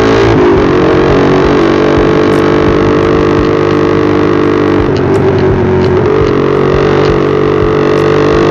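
Motorcycle engine running steadily as the bike rides along. Its pitch dips briefly just after the start and again about five seconds in, then climbs back up.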